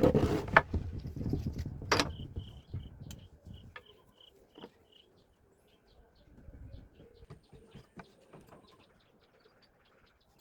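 Knocks and rustling, then a quick, even series of short, high bird chirps lasting a few seconds, followed by faint scattered clicks.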